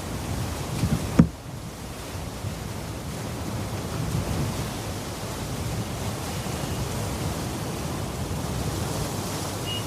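Steady rushing noise of sea surf and wind, heaviest in the low end, with a single sharp knock about a second in.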